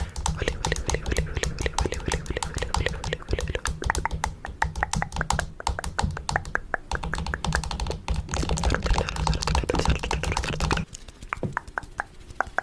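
Rapid fingernail tapping on the camera, ASMR-style, about ten light clicky taps a second. Near the end the low rumble under it drops away and the tapping turns sparser and quieter.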